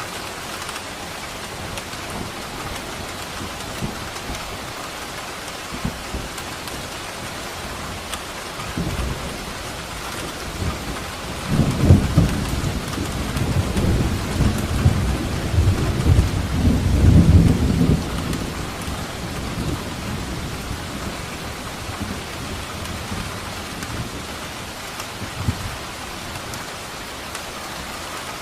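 Steady heavy rain falling, with a long low roll of thunder that builds about a third of the way in, peaks in the middle for several seconds, then dies away.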